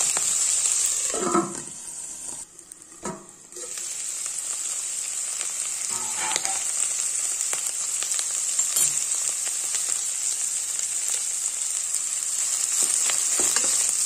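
Sliced onion and onion flower stalks sizzling steadily in hot mustard oil in a kadai. The sizzle drops away briefly about two seconds in, then comes back.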